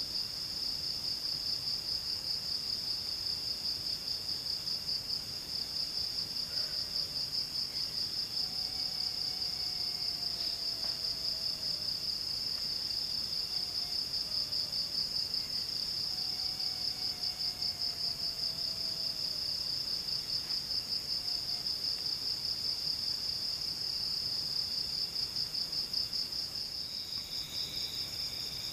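Forest insect chorus: a steady, high, fast-pulsing trill that runs without a break. Two faint falling whistles sound in the middle, and a second, lower trill joins near the end.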